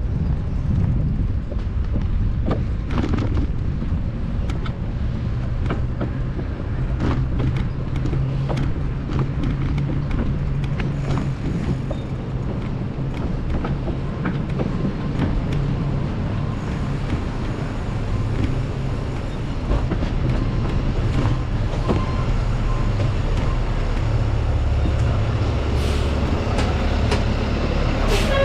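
Wind buffeting a GoPro's microphone during a bicycle ride, a steady low rumble with scattered clicks and knocks, over street traffic.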